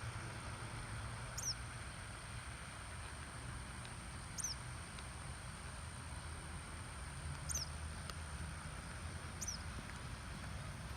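A small bird giving a short, high, down-slurred call four times, about every two to three seconds, over a steady low rumble of wind and walking.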